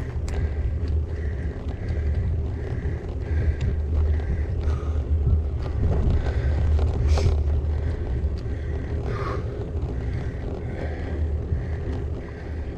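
Steady low wind rumble on a bike-mounted GoPro's microphone and tyre noise from a bicycle being ridden, with a faint regular chirp about twice a second.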